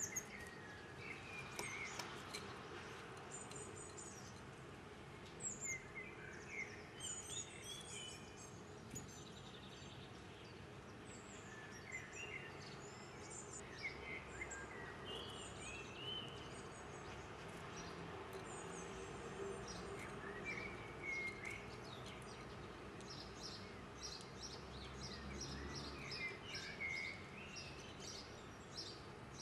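Small songbirds calling outdoors: scattered short high chirps and twittering notes at several pitches, ending in a quick run of rapid high notes, over a steady background hum of ambient noise.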